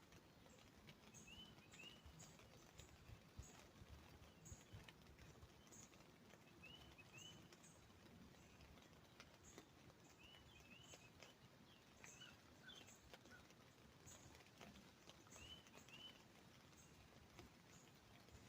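Faint birdsong: pairs of short rising chirps every few seconds, with frequent thin, very high chip notes in between, over a low background hiss and a few scattered soft ticks.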